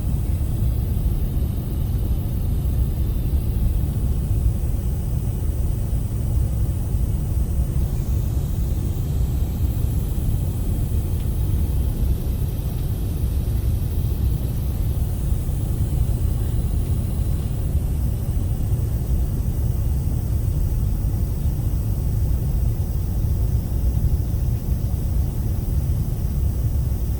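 Steady low rumble of cabin noise inside an Airbus A380 airliner, the engines and airflow heard through the fuselage, with a faint hiss over it and no sudden changes.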